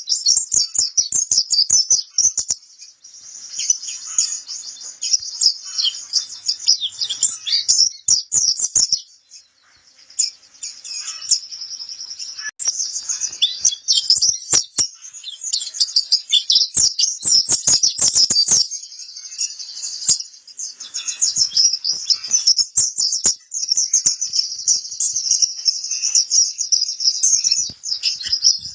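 White-eye (pleci kapur) singing a rapid, high-pitched twittering song almost without pause, with a short break about nine seconds in. Faint scattered clicks sound under the song.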